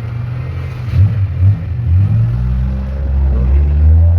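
Mitsubishi Lancer's four-cylinder engine running and being revved: two quick throttle blips about a second in, then held at higher revs in the second half. The engine started on the first turn of the key after the cold-start fix.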